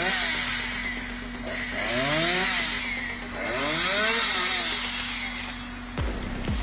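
A chainsaw revved up and let back down three times, its pitch climbing and falling with each rev, over a steady hum. A couple of sharp knocks near the end.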